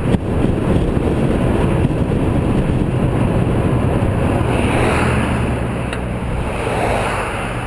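Car on the road: steady engine and tyre noise, with a single click at the very start.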